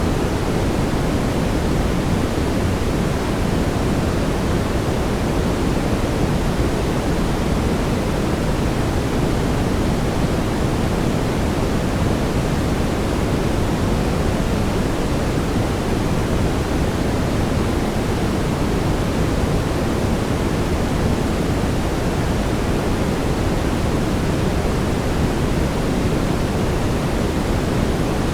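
Steady brown noise: an even, unchanging hiss-like rush with most of its weight low down.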